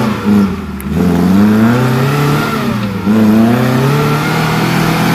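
Vehicle engine revving up and easing off twice, its pitch rising about a second in and again about three seconds in, as it is driven over an off-road track.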